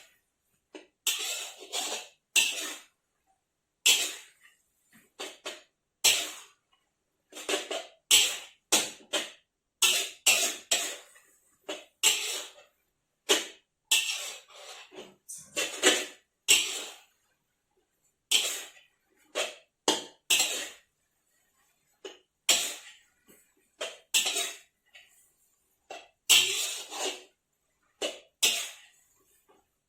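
Someone eating a bowl of soupy instant noodles: a long run of short slurps and mouth sounds, a few each second with brief gaps, mixed with utensils clinking against the bowl.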